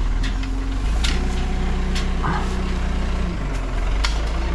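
Backhoe's diesel engine running steadily, its note shifting up for about two seconds in the middle, with a few sharp metallic clanks.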